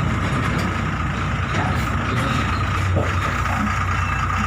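A motor vehicle's engine running steadily, a continuous low hum with a steady higher whine over it.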